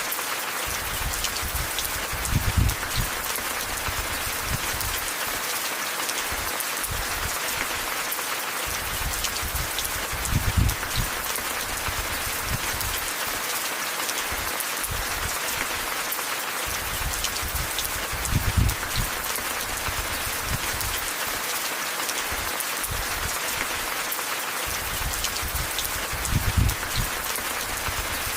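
Steady rain falling, an even hiss full of fine drop ticks. Four times, about every eight seconds, a short low rumble swells up under the rain.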